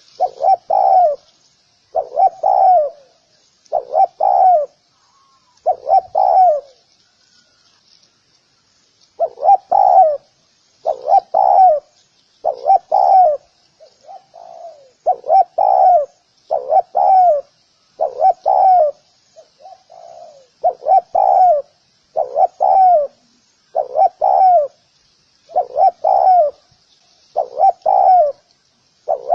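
Spotted dove cooing: a regular run of short, low, pitched phrases, one every one to two seconds, with a pause of about two seconds early on before the calls resume. A faint steady high hiss sits behind them.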